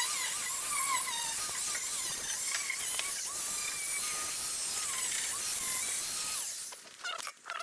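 Stick-welding arc from an inverter welder burning a 6011 rod on thin, rusty metal: a steady crackling hiss with a wavering whine that breaks off about six and a half seconds in, followed by a few short clicks.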